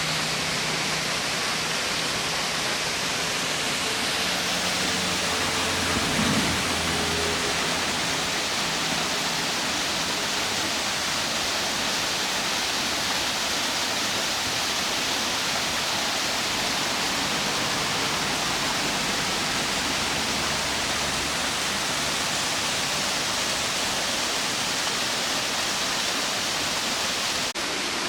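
Steady rush of falling water from the Tarsus Waterfall, with a faint low hum underneath.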